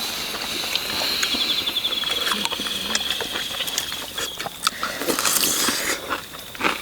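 Eating sounds: short clicks and taps of spoons and chopsticks against earthenware bowls, with a brief rush of noise about five seconds in. A high, rapidly pulsing insect chirr runs steadily behind them.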